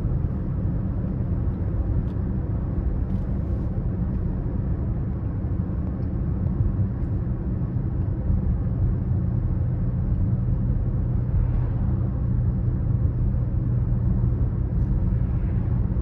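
BMW X5 30d's 3.0-litre straight-six diesel engine and road noise while the car cruises at a steady pace: an even low rumble with a steady low engine tone that holds its pitch throughout.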